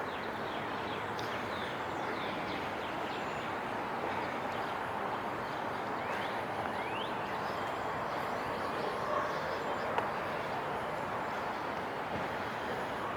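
Steady downtown street traffic: a continuous wash of passing cars and tyre noise, with a few short high chirps about a second in and again around six seconds in.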